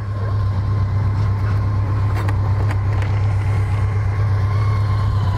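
BMW K1200LT's 1200cc liquid-cooled inline-four engine idling steadily with a low, even hum.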